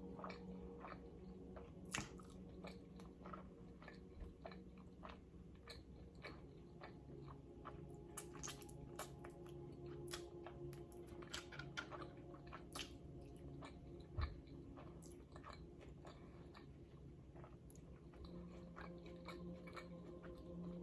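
A person chewing and biting food, with many irregular crisp crunches typical of chips.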